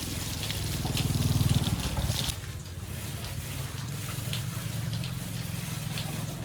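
A small engine running with an even low throb, louder for about a second near the start, then settling to a steady run.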